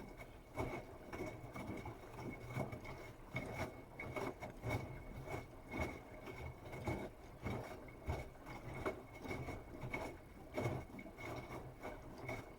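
Bosch Serie 8 WAW32590 front-loading washing machine in its wash phase, the drum turning wet laundry with a swish about once a second over a steady motor hum and a faint high whine. The drum stops near the end.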